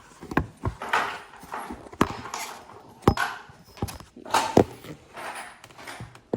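Irregular knocks and clatter of hard objects being handled and set down, with scraping and rustling between the knocks.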